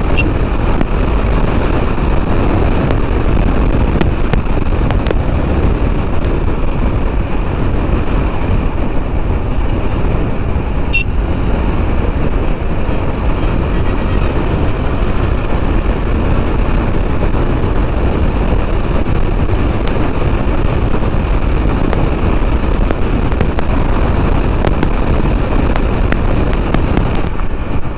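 Steady riding noise from a KTM Duke 390 motorcycle on the move: wind rushing over the microphone mixed with the running of its single-cylinder engine.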